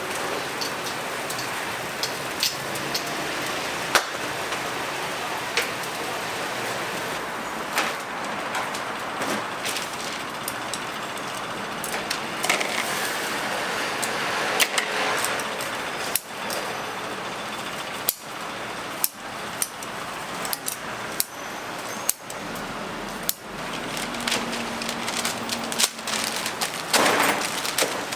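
Cooking and food-handling noise: a steady hiss with irregular sharp clicks and knocks.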